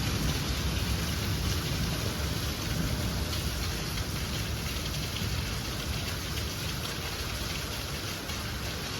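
Heavy rain falling steadily, an even rushing noise with no let-up.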